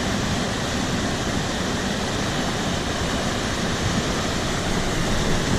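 Rushing water of a monsoon-swollen mountain stream, a steady even rush.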